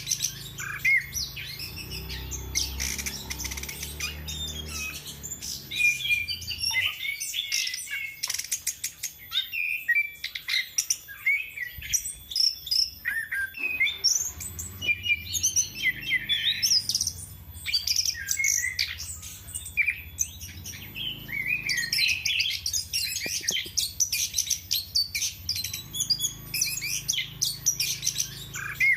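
Chestnut-capped thrush (anis kembang) singing a fast, unbroken song of varied high chirps, trills and whistles. A low hum runs underneath for the first several seconds and returns near the end.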